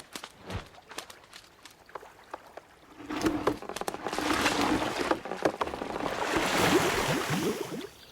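Water sloshing and bubbling, starting about three seconds in after a few scattered light clicks and fading out near the end.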